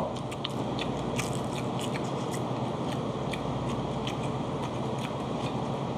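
Close-up eating sounds: chewing on grilled gizzard shad, with small irregular crunching clicks, over a steady background hum.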